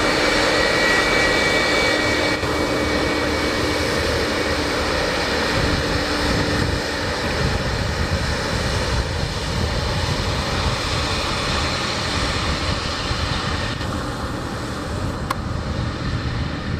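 Jet engines of a Boeing 757-200 freighter running steadily on the ground, with a high whine that fades after about two seconds.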